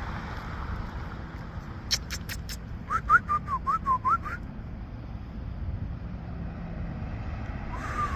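Four quick tongue clicks, then a rapid run of short whistled notes that hook up and down in pitch, and a longer wavering whistle near the end: a person clicking and whistling to call a bird. A steady traffic rumble runs underneath.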